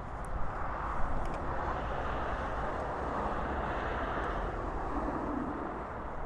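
Steady outdoor background rumble, an even noise with no distinct pitch and strongest in the low end, with a few faint clicks in the first second or so.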